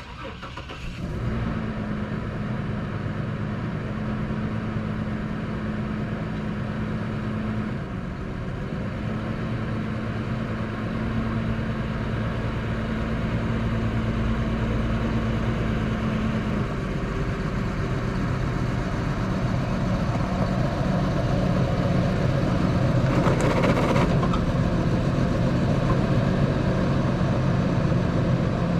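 Tow vehicle's engine and road noise while driving with an empty car trailer behind, a steady hum whose pitch shifts a couple of times, with a brief louder rush a little over three-quarters of the way through.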